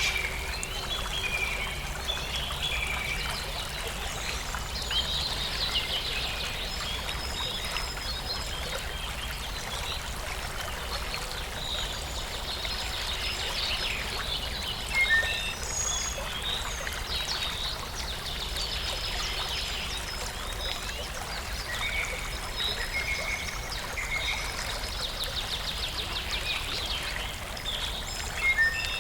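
Water running steadily in a stream, with many small birds chirping and trilling over it.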